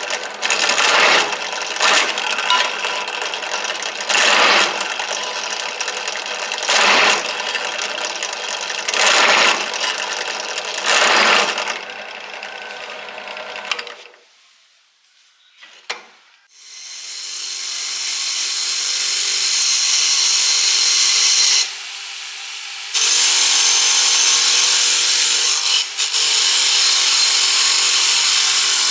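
Power tool working steel, with louder passes every second or two. It stops, then a motor spins up, rising in pitch, and runs steadily, dropping briefly twice.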